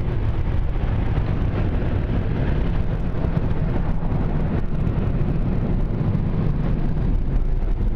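Automatic car wash dryer blowing air over a truck as the dryer unit moves along it: a steady, loud rushing noise.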